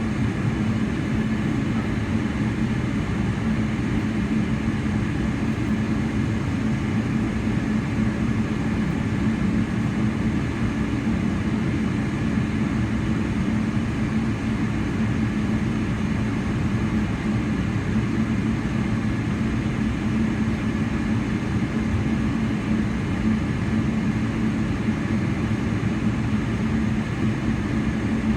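Steady engine and airflow hum heard inside the cabin of a Boeing 777-300ER with GE90 engines, with a constant low drone that does not change.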